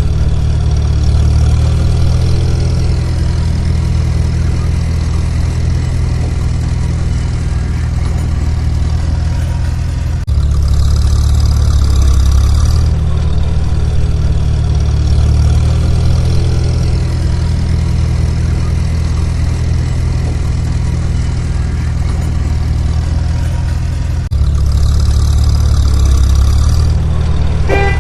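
A steady engine sound effect with a deep rumble, running as if at idle. It breaks off and starts again abruptly about ten seconds in and again near the end, as a repeating loop.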